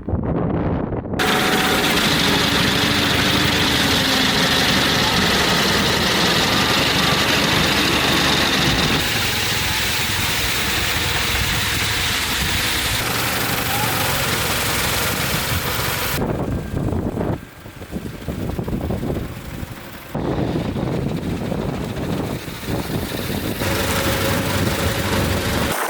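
Battery-powered 1970s GE electric garden tractor running its snowblower: a steady, loud rush of machinery and thrown snow with a faint electric-motor whine. The sound thins out abruptly about sixteen seconds in, drops away briefly twice, then picks up again.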